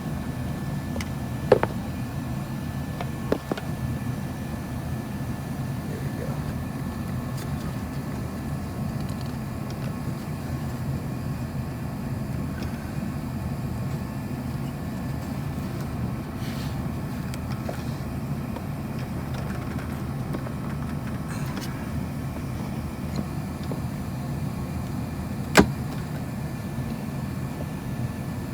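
Steady hum of a running heater, broken by a few sharp knocks of parts and tools: two early on and a louder one near the end, as the AC box is worked loose.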